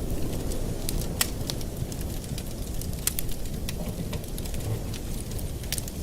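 Wood fire in a fireplace crackling: sharp, irregular pops and snaps over a steady low rumble, with the loudest pops about a second in and about three seconds in.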